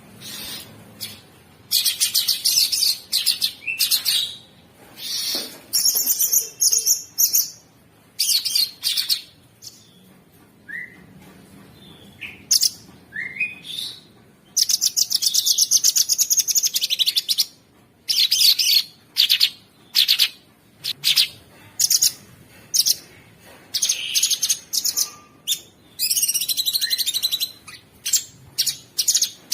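Cucak sungkok songbird singing in bursts of very fast, harsh, rattling trills, each lasting a second or two and broken by short pauses, with a few single whistled notes between them.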